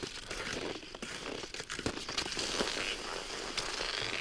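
Cross-country skis sliding on cold packed snow of a groomed track, with irregular crunching clicks from the ski poles planting in the snow.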